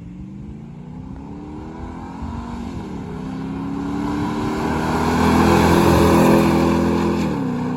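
A Toyota Sequoia's 4.7-litre V8 breathing through a BAmufflers aftermarket catback exhaust, accelerating past. The engine note climbs, drops at two upshifts about 3 seconds in and near the end, and is loudest around 6 seconds as the truck goes by.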